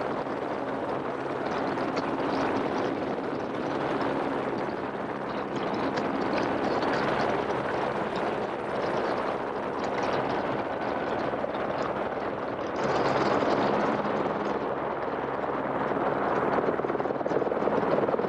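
Helicopter in flight: steady engine and rotor noise with a low hum underneath. It grows louder for a moment about 13 seconds in.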